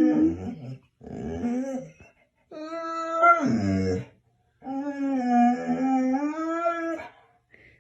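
A dog howling in three long, drawn-out whining calls, the second sliding down in pitch at its end.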